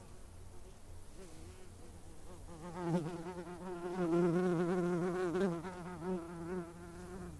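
Insect wings buzzing at a steady, slightly wavering pitch, like a fly or bee in flight. The buzz grows louder about two and a half seconds in and eases back near the end.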